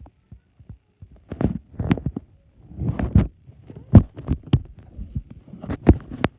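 Fireworks going off, heard from inside a house: an irregular run of low thumps and bangs with some sharper cracks, the loudest about four seconds in and again near the end.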